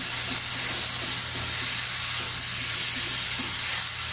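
Finely chopped potato and carrot sizzling in hot oil in a nonstick frying pan: a steady frying hiss, with soft scraping as a silicone spatula stirs them.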